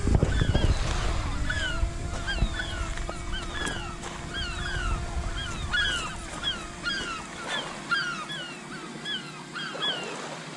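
A flock of gulls giving harsh, downward-slurred alarm calls over and over, several a second and overlapping, as they mob a hovering drone. A steady hum from the drone's propellers runs underneath, with wind rumble on the microphone that drops away near the end.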